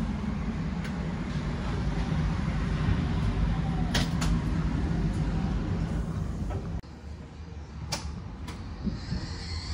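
Steady rumble of a moving passenger train heard from inside the carriage, with a few sharp clicks. About seven seconds in, the rumble drops suddenly to a quieter level.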